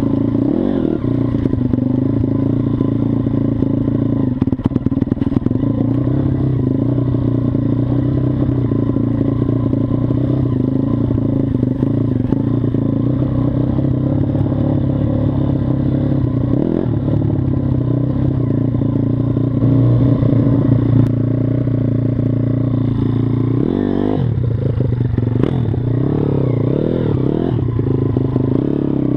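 Mojo KLX 160 SM pit bike's single-cylinder four-stroke engine running under way at fairly steady revs, with the revs dropping and climbing again several times near the end.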